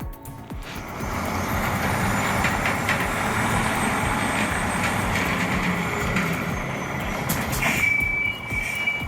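Heavy truck running with a steady rumble, then a reversing alarm starts beeping near the end.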